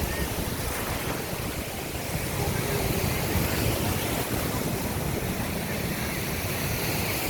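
Steady rushing noise of surf and wind buffeting the microphone, with no distinct aircraft pass standing out.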